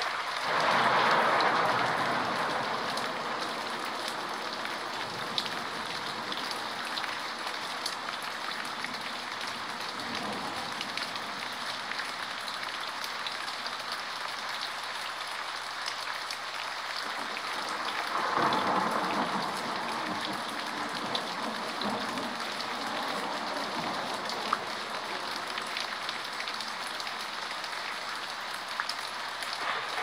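Steady rain, an even hiss with scattered drop ticks, swelling louder for a few seconds near the start and again about 18 seconds in.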